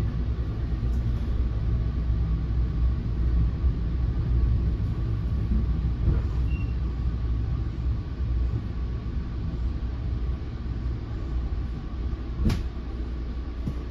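Steady low rumble of a moving NJ Transit Multilevel passenger coach, heard from inside the car, with a faint steady whine. There is a single sharp knock near the end.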